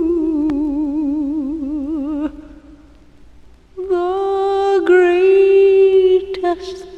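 Female voice singing long wordless notes with a wide, even vibrato. The first note fades out, there is a brief lull, and then a second long note is held. A few short notes follow near the end.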